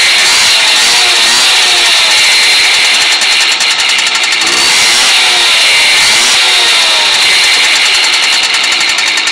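Simson moped's two-stroke engine, bored out to 70 cc and fitted with a sport exhaust, running loudly and being revved up and down, its pitch rising and falling several times.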